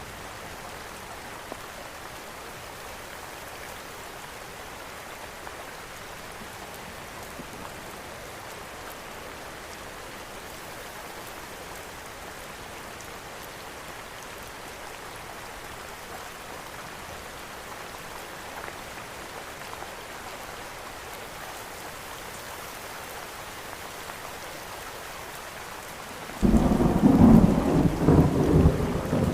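Steady rain falling, with a loud rumble of thunder breaking in suddenly near the end and continuing to rumble.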